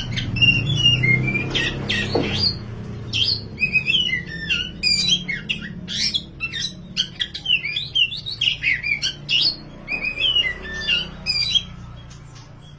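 Oriental magpie-robin in full song: a fast, varied run of whistled phrases that jump up and down in pitch, stopping near the end, over a steady low background hum.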